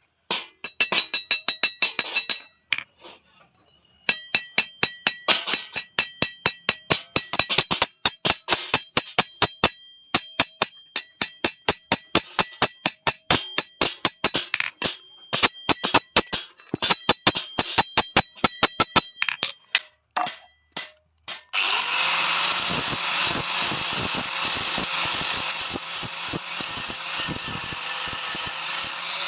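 Hammer blows on steel, several a second, each ringing metallically, with a brief pause after a few seconds and stopping after about 19 seconds. About two seconds later a power tool starts and runs with a steady whir.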